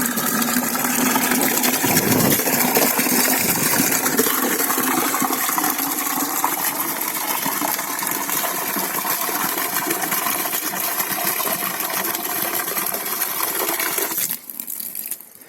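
Water pouring steadily into a dug post hole in dry ground, soaking the soil so it can be dug deeper. The pour stops sharply near the end.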